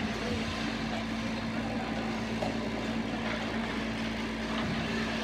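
Ice hockey arena ambience: a steady low hum under a constant haze of noise, with faint scattered clicks.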